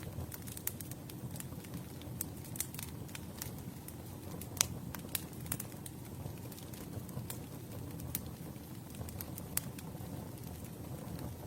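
Campfire burning: a low steady rush of flames with irregular sharp crackles and pops of the wood, the loudest pop about four and a half seconds in.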